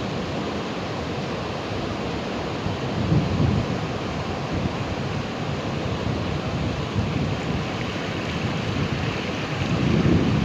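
Ocean surf washing steadily, with waves swelling up about three seconds in and again near the end.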